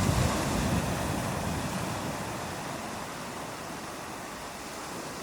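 Ocean waves washing onto a sandy beach: a rush of surf with a low rumble, loudest at first and easing off over the next few seconds.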